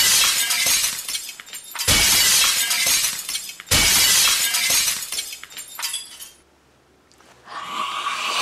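Glass shattering three times in a row, about two seconds apart, each crash ringing out and dying away. A noisy swell builds near the end.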